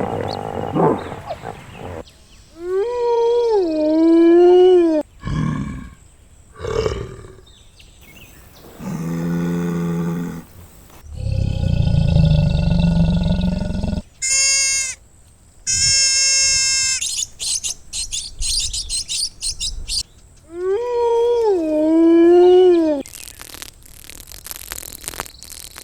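A string of different animal calls played one after another, including deep roars typical of big cats. A pitched call swoops down and up about two seconds in and is repeated near the end.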